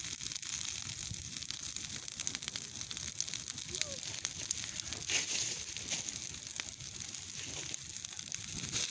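Wood campfire burning, crackling steadily with many small sharp pops.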